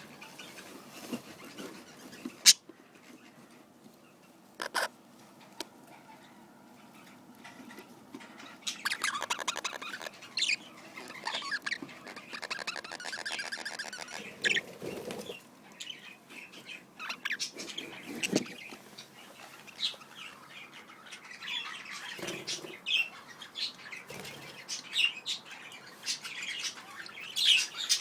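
Pet budgerigars chirping and chattering, busiest in a long warbling stretch around the middle, with a few sharp clicks early on and fluttering or rustling in the cage.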